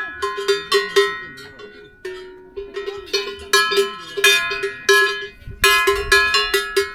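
Cowbell clanking close by in irregular runs of strikes, each ringing on briefly, with short lulls about two seconds and five seconds in.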